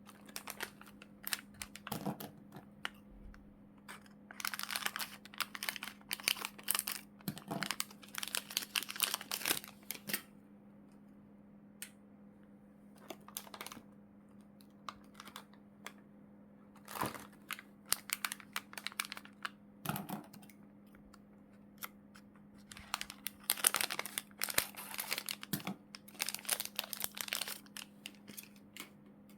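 Plastic packaging crinkling and rustling in several bursts with pauses between, mixed with light clicks, as items are handled and unwrapped.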